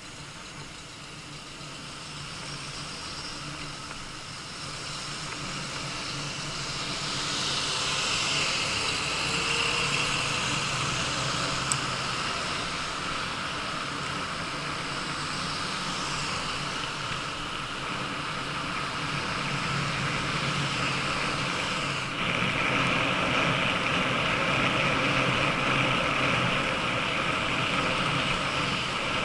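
Steady road noise from a bicycle ride: wind and tyre hiss, growing louder about six seconds in and then holding, with one sharp click near the middle.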